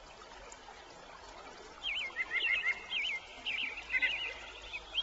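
A small bird singing: a quick run of high, warbling whistled notes that starts about two seconds in, over a faint steady hiss.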